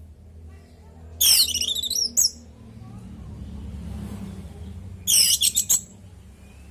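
Orange-headed thrush singing two short, loud, rapid warbling phrases, one about a second in and another about five seconds in, over a steady low hum.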